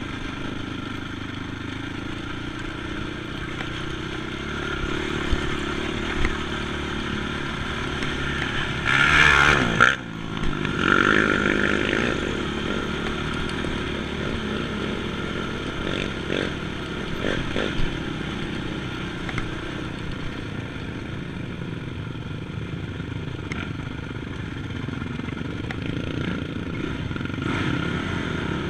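ATV engine running steadily while riding, with a brief loud surge about nine seconds in.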